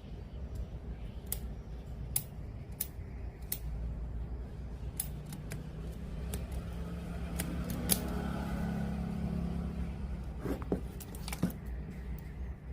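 Irregular sharp clicks and ticks of hand tools and parts being handled during bench repair of a radio cassette player, over a steady low hum.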